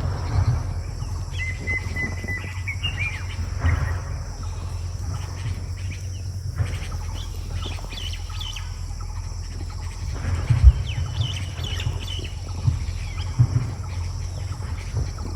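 Birds chirping, with a held whistled note about a second and a half in and scattered chirps after, over a steady low hum.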